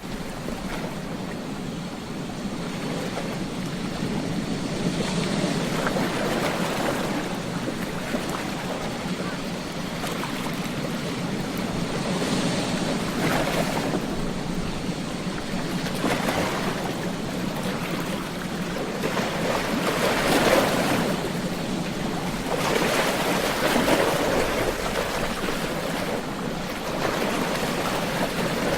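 Ocean surf breaking and washing on a beach, a continuous rush of water that swells every few seconds as waves come in.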